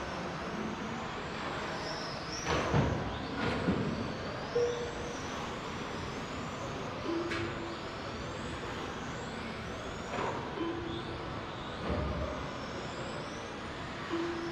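Electric RC touring cars running laps. Their motors whine, rising and falling as they pass. There are several sharp knocks of cars hitting each other or the boards, and short beeps recur every few seconds.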